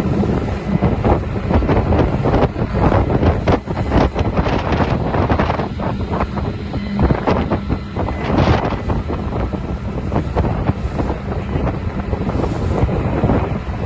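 Wind buffeting the microphone on a moving boat: a loud, rough rumble with constant gusty crackles.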